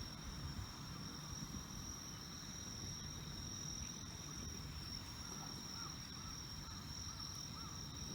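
Insects chirring steadily at a high pitch, with a low rumble of outdoor noise underneath. A few faint short chirps come in the second half.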